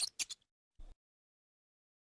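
A mouse squeaking: the last few quick, high, clicky squeaks, stopping within the first half second, then a faint short tap a little later.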